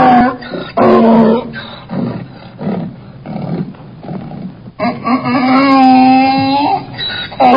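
Donkey braying: loud, drawn-out pitched calls, with a run of lower, quieter rhythmic pulses in between and one long call about five seconds in.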